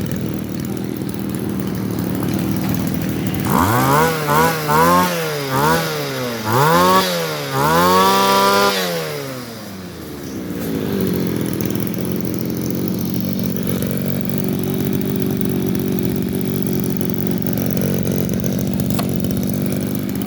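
Echo 240 two-stroke brush cutter engine idling, then revved up and down about five times in quick blips before it settles back to a steady idle.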